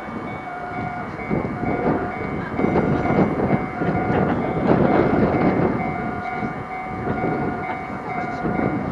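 Enoden electric train running, heard from inside the passenger car: a steady rumble of wheels on rails under a steady whine that drops out and returns, the rumble swelling louder in the middle.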